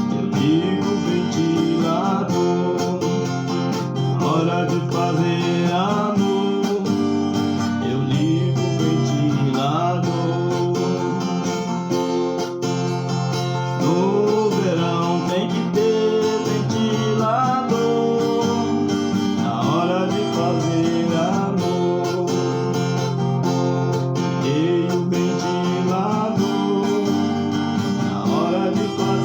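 Instrumental music led by a strummed and plucked acoustic guitar, with melodic runs sliding between notes.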